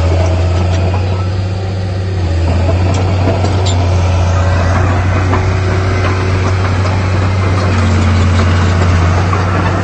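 Heavy diesel earthmoving machinery running steadily under work, a loud continuous low engine hum with a slight dip about two seconds in.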